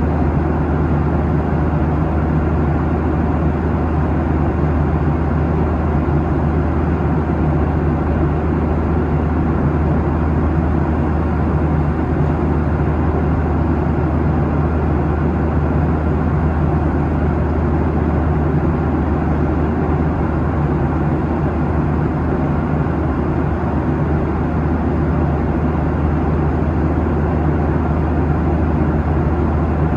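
Steady cabin noise of a Boeing 737-800 at cruise, heard from inside the cabin: an even rush of airflow over the fuselage with the low, constant drone of its CFM56-7B turbofan engines, unchanging throughout.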